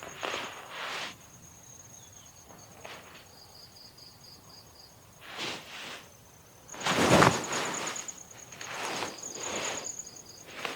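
Crickets trilling steadily, a high pulsing note with a second, lower chirping call joining in now and then, over several short rustling and shuffling noises; the loudest comes about seven seconds in.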